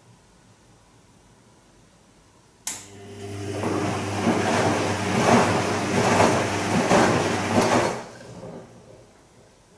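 Bosch Serie 2 VarioPerfect washing machine turning its drum in a short burst of the gentle Silk programme: the motor starts abruptly, the wet laundry and water swish about once a second for around five seconds, then the drum stops and the sound dies away.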